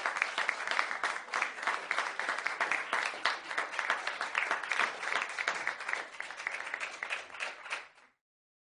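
Crowd applause: dense clapping that cuts off suddenly about eight seconds in.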